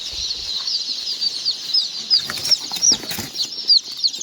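Many chicks peeping together in a continuous chorus of short, high chirps, with a brief burst of rustling or wing flapping about two to three seconds in.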